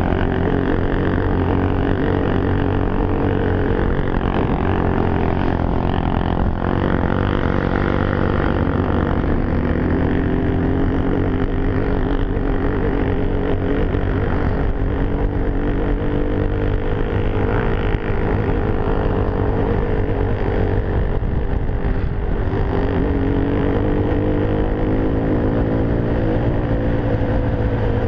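Enduro motorcycle engine running steadily while riding, its pitch rising and falling gently with the throttle.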